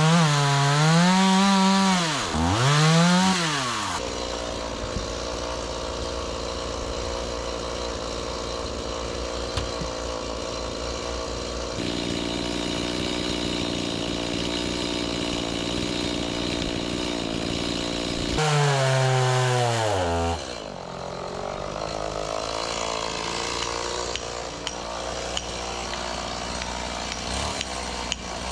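Gas chainsaw revving up and down, then running steadily at speed for a long stretch as it cuts through an oak round. About eighteen seconds in it revs and drops again before running on.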